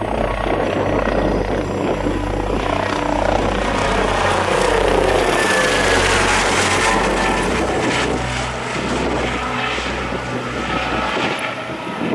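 Jet airliner's engines roaring as it passes close, the pitch of the roar falling away midway through, mixed with trance music whose deep bass pulses a little under once a second.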